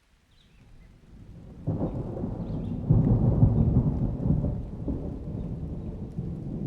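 A thunder rumble that builds from near quiet, swells sharply about a second and a half in, is loudest around the middle, and then slowly rolls away.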